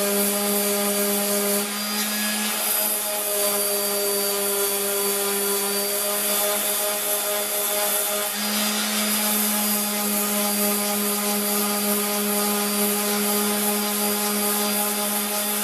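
Electric drill running steadily, its bit boring into a wooden door. The motor's note shifts under load a couple of seconds in and steadies again later.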